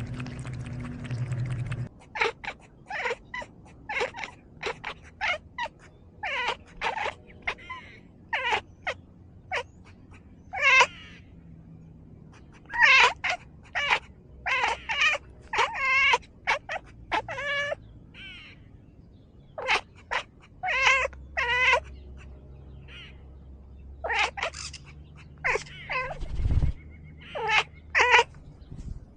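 A cat meowing over and over in a long run of short calls, with a few longer meows that bend in pitch. A low hum fills the first two seconds before the calls start, and there is a single low thump near the end.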